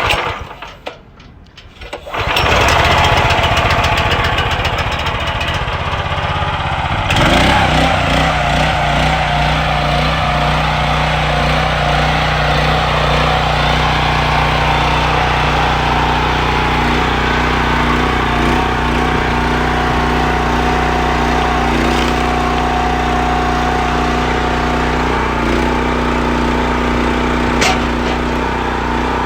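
15 hp manual-start engine on a 45-tonne log splitter being started: it catches about two seconds in and then runs steadily. About seven seconds in its note changes, and it holds an even running note after that.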